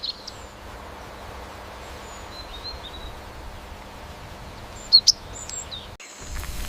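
Sparrow chirping: a short high trill at the start, a few faint chirps in the middle and two loud, sharp chirps about five seconds in, over a steady background hiss. Near the end the background cuts to a lower rumble.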